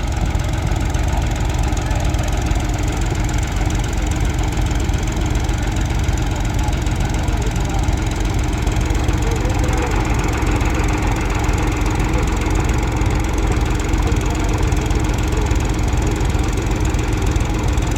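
Tractor diesel engines running loud and steady, with a deep continuous rumble and a steady drone.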